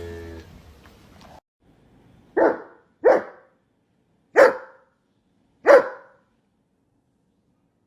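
A dog barking four times: short single barks spaced about a second apart, starting a little over two seconds in.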